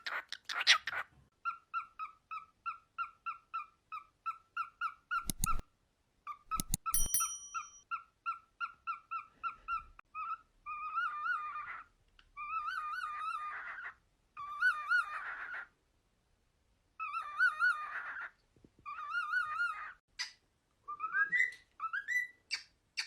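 Pet cockatiel whistling: a run of short, evenly repeated notes at about four a second, then longer warbling whistled phrases and a few rising whistles near the end. Two sharp knocks interrupt it about five and seven seconds in.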